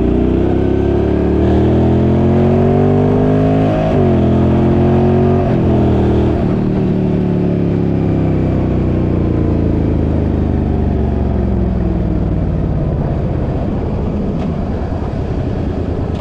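Suzuki's engine pulling under acceleration, its pitch rising, then dropping suddenly at gear changes about four and five and a half seconds in. After that it winds down slowly and steadily as the vehicle eases off.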